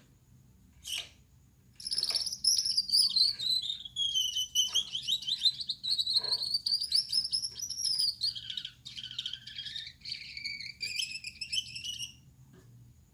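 Male Gouldian finch singing: a short note about a second in, then a buzzy, rapidly pulsed song of about ten seconds, its pitch sweeping down and back up before it stops near the end.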